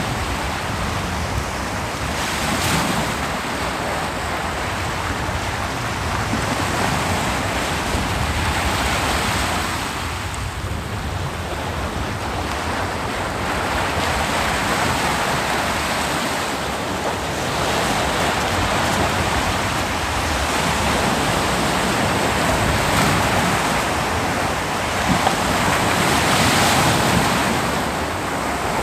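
Ocean surf breaking on a beach: a continuous wash of water with swells every few seconds as each wave comes in and runs back.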